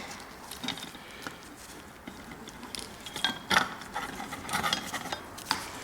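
Scattered small clicks and light clinks of ceiling-fan light-kit wiring and parts being handled as the limiter is taken out, with the sharpest click a little past the middle.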